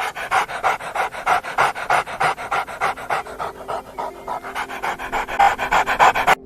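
An animal panting rapidly and rhythmically, about four to five breaths a second, steady throughout.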